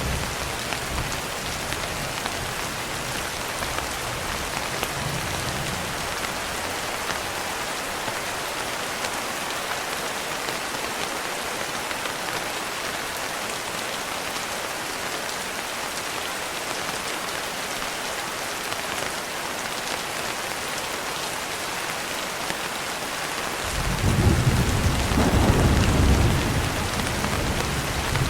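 Steady rainfall hissing throughout. A low thunder rumble fades out over the first few seconds, and a louder roll of thunder breaks in near the end.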